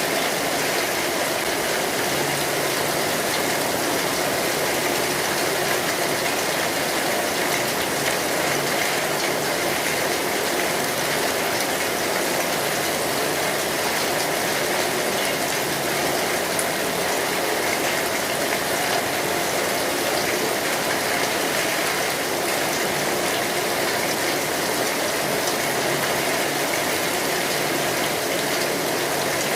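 Steady, heavy rain falling on a metal roof, an even dense patter.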